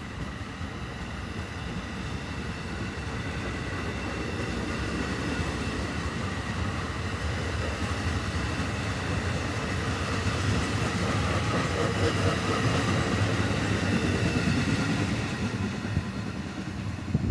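Double-deck commuter coaches of an NJ Transit train rolling past as it pulls away, a steady rumble of wheels on rail that slowly grows louder, then eases as the trailing cab car goes by.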